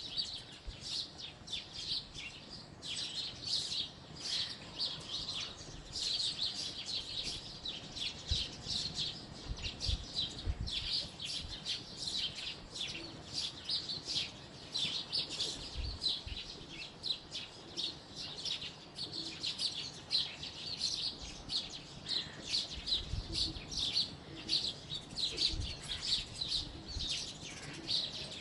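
House sparrows chirping: a dense, unbroken run of short chirps, with a few brief low bumps now and then.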